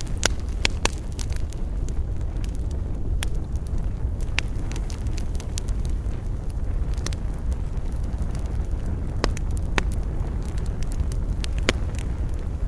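Wood fire burning with a steady low roar of flame and scattered sharp crackles and pops from the burning wood.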